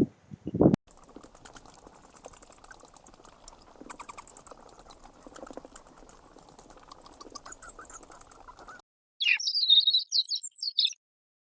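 Small animals calling: rapid high-pitched trilling in several bursts, then a short run of bird chirps near the end.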